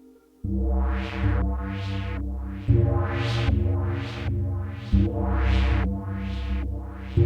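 Electronic music from a Eurorack modular synthesizer, starting about half a second in: a deep bass line that changes note every two seconds or so, under a steady run of pitched notes that each brighten and then fade, roughly one and a half a second.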